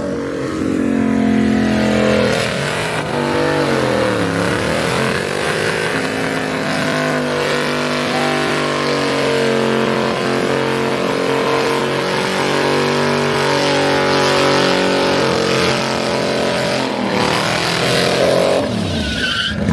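Car engine running, its pitch dropping about three to four seconds in, holding fairly steady for most of the time, then rising and falling again near the end.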